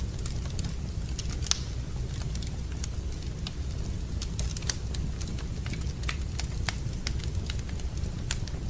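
Wood fire in a fireplace crackling: irregular sharp snaps and pops, a few louder ones, over a steady low rumble.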